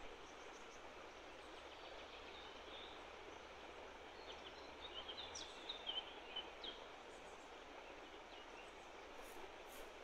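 Faint steady outdoor background noise with scattered short bird chirps in the middle, and a couple of faint clicks near the end.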